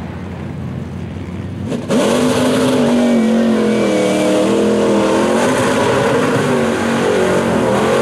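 Mud-drag vehicle's engine opening to full throttle suddenly about two seconds in, then holding high revs with the pitch rising and dipping. Before that, a lower engine rumble.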